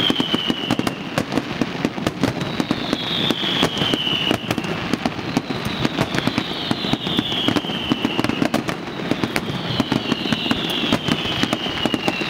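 Fireworks display: a rapid, continuous run of aerial shells bursting with bangs and crackling. A high tone that slides down in pitch recurs about every three seconds.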